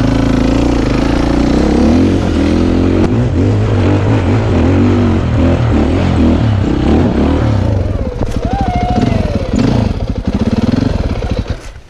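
Dirt bike engine running and revving, its pitch rising and falling with the throttle. The engine sound drops away just before the end.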